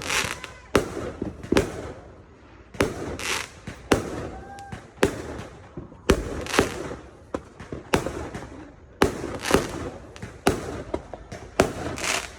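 Fireworks bursting one after another in a steady, irregular barrage of sharp bangs, about one to two a second. Many bangs trail off in a brief crackle.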